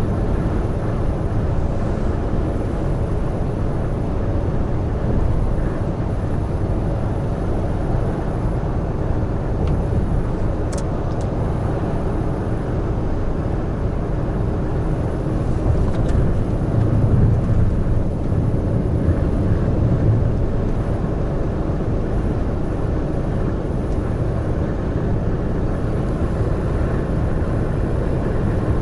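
Heavy truck cruising on an expressway: steady low engine and tyre rumble, swelling a little about two-thirds of the way through.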